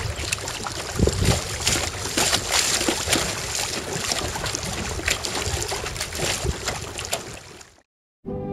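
Strong wind buffeting the microphone and water splashing while a canoe is paddled, with scattered knocks. It fades out near the end, and music starts just at the end.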